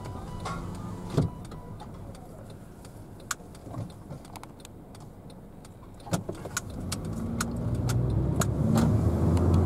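Car running, heard from inside the cabin: a low steady idle while stopped, then getting louder over the last few seconds as the car pulls away and turns. A sharp knock about a second in and scattered light clicks.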